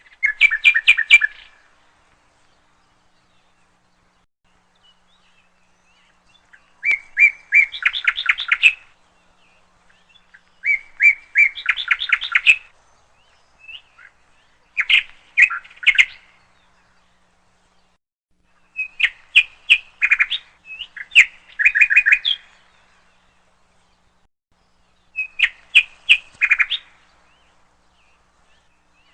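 A songbird singing: about seven short phrases of quick, high notes, each a second or two long, with silent pauses of a few seconds between them.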